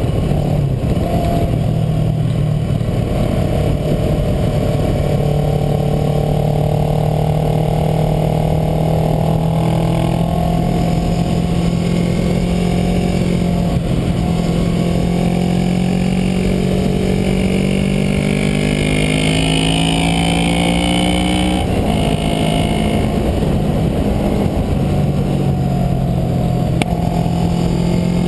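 Kawasaki Versys motorcycle engine running under way, heard from a camera mounted on the bike, its note slowly climbing with speed, then dropping and picking back up about twenty-one seconds in. Wind rush rumbles on the microphone underneath.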